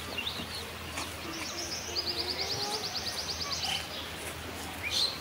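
Bird calls: short chirps and a fast high trill that starts about a second and a half in and lasts about two seconds, over a low steady hum.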